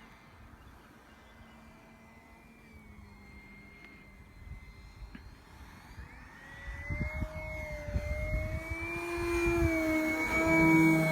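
Electric motor and propeller of a Carbon Z Cessna 150 radio-controlled plane whining, faint and distant at first. From about halfway the whine rises in pitch and grows steadily louder as the plane comes in close, loudest near the end. Gusts of wind rumble on the microphone in the middle.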